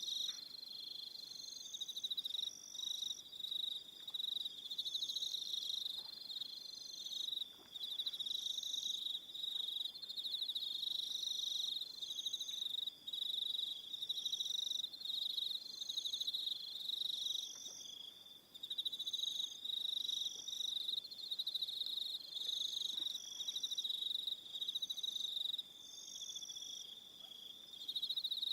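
Crickets chirping in an evening chorus: a continuous high trill with shorter, higher chirps repeating about once a second over it.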